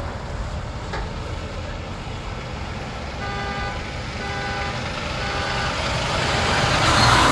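Big tow trucks driving past with a steady engine rumble. In the middle come three short, evenly spaced beeps about a second apart, and near the end a truck passes closer and louder.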